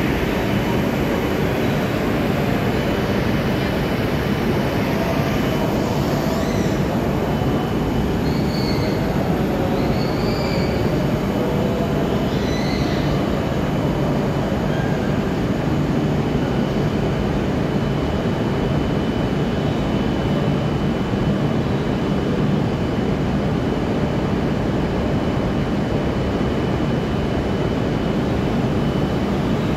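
Shinkansen trains standing at a station platform: a steady, even running noise from their on-board equipment, with a thin high whine held over it.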